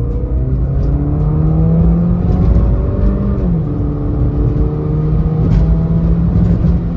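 Mini Cooper's turbocharged four-cylinder engine heard from inside the cabin under hard acceleration, with road and tyre rumble beneath. The engine's pitch climbs for about three seconds, drops sharply as the automatic gearbox shifts up, then pulls on steadily.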